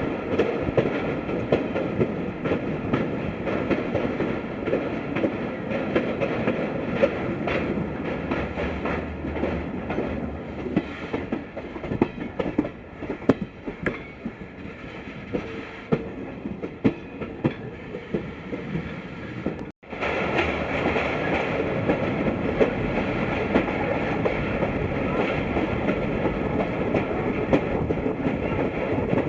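Express passenger train running on broad-gauge track, a steady rumble with wheels clicking over rail joints. It grows quieter for a while in the middle, cuts out for a moment about twenty seconds in, then comes back louder.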